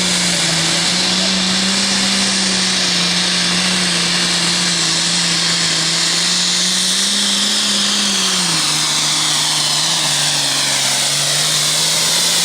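Super Farm class pulling tractor's turbocharged diesel engine at full throttle under load, a loud steady drone with a high whine and hiss over it. The engine note drops in pitch about two-thirds of the way through as the load pulls it down.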